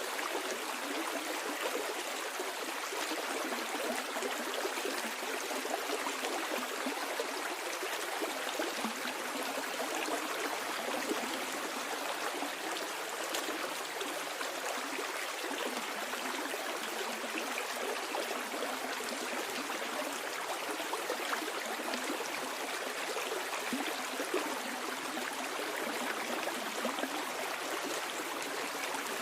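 A flowing stream: steady, unbroken rush and babble of water running downstream over stones.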